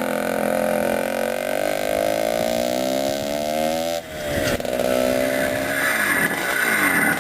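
Vintage CZ two-stroke single-cylinder motocross motorcycle engine running at steady revs, the pitch easing a little. About four seconds in it drops away briefly, then picks up again with revs rising and falling repeatedly.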